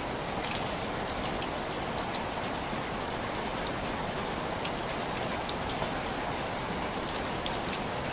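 Steady rain falling on window glass, with scattered sharp individual drops tapping over the even hiss.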